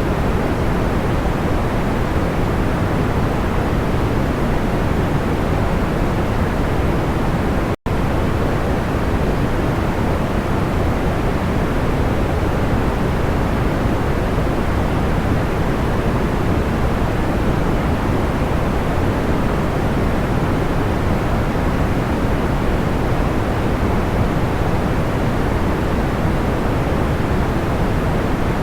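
Steady white noise weighted toward the low end, like pink noise: an even, smooth rush with no crackles in it. It drops out for an instant about eight seconds in.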